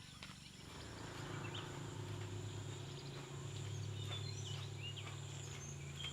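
Outdoor rural ambience: a steady low hum that swells about a second in, with scattered bird chirps and a steady high insect drone.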